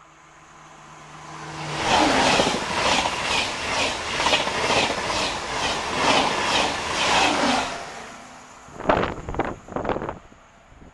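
TGV high-speed train passing at speed: a rising rush as it approaches, then about six seconds of loud rhythmic clatter as its wheelsets and bogies go by, two to three beats a second, before it fades away. Near the end a few rough thumps of the train's wake buffeting the microphone.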